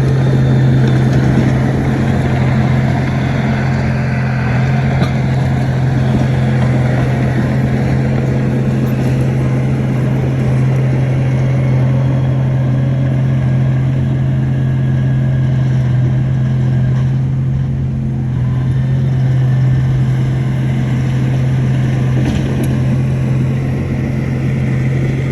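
Heavy diesel engine of earth-moving machinery running steadily at a constant speed, a loud low drone with no revving.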